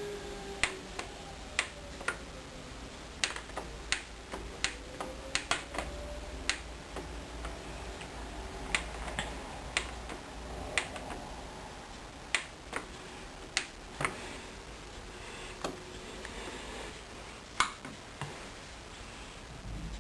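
A series of sharp, irregularly spaced clicks from the controls of a Hoover Dynamic Wash 10124 DP washing machine being operated, over a faint low hum.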